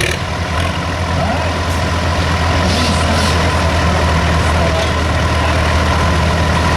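Heavy engine of a modified pulling tractor running steadily at an even, low note, without revving up.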